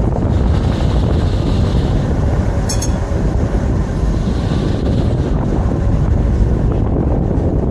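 Vario LF2R.E and LFR.E low-floor tram set running along the track, heard on board as a steady loud rumble. There is one brief sharp high click or squeak just under three seconds in.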